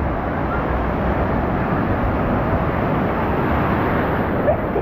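Steady rushing noise of surf, with wind buffeting the microphone.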